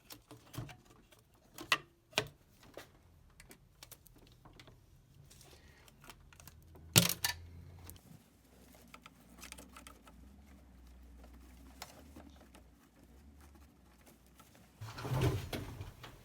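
Scattered clicks and knocks of hand tools and parts being handled during engine reassembly. The loudest knock comes about seven seconds in, and there is a brief clatter near the end.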